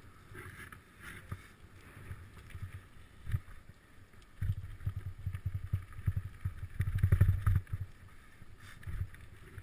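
Riding noise from a bicycle: wind rumbling on the microphone in uneven gusts, with short rattles and clicks, loudest about seven seconds in.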